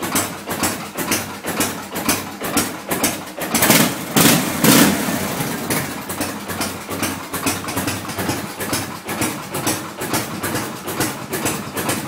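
1979 Harley-Davidson FLH's shovelhead V-twin, bored 10 over, idling just after a cold start, running with a steady beat and a little knocking that the owner says goes away after a minute of warming up. It gets briefly louder about four seconds in.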